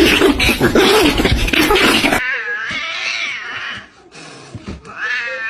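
Cats yowling with a wavering pitch, loud and harsh for about the first two seconds. After a sudden change, a quieter, drawn-out wavering yowl follows, and another yowl starts near the end.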